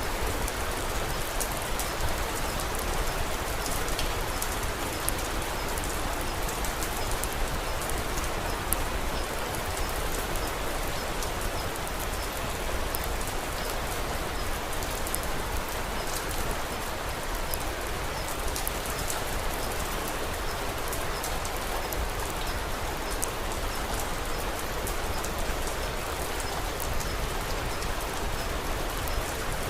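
Steady rain falling, a dense even hiss with many small sharp ticks of drops throughout.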